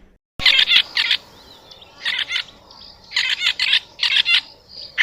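Red-billed buffalo weaver calling: rapid, harsh chattering phrases, about four of them, with short pauses between.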